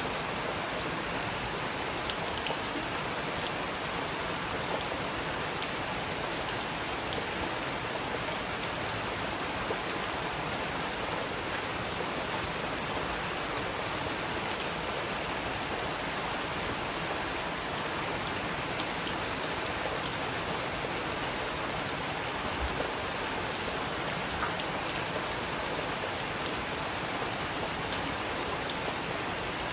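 Steady, even rain, with scattered small ticks of drops or pops.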